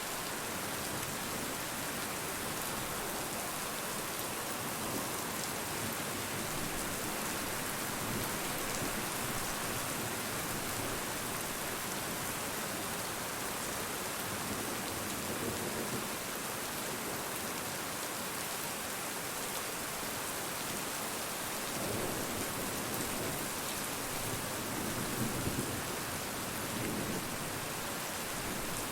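Steady rain falling, an even hiss without a break, with a few brief low rumbles swelling up in the second half.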